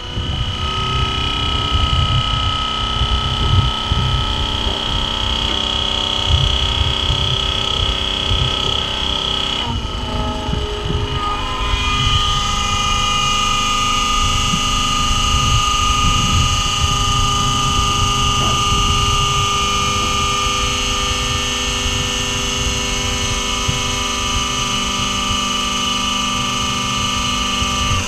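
Farm machine's diesel engine running steadily under load, with the whine of a grain unloading auger as soybeans are augered across. The whine shifts slightly about ten seconds in.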